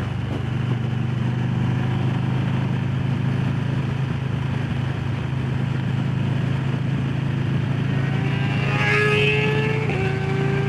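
Harley-Davidson Low Rider S Milwaukee-Eight V-twin idling steadily. About eight seconds in, another engine's tone rises in pitch.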